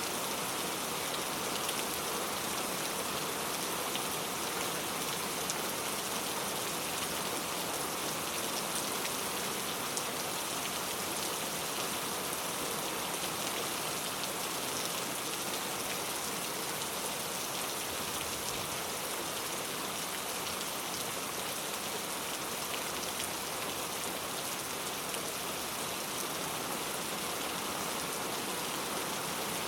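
Very heavy rain falling steadily, a dense even hiss of countless drops with faint individual splashes.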